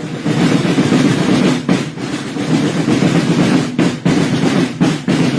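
Drums playing a dense, continuous roll, with a few brief dips in the rattle.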